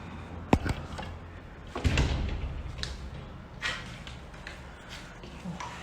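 A door that will not open being pushed and rattled: a sharp knock about half a second in, a heavier thump near two seconds, then a few lighter knocks.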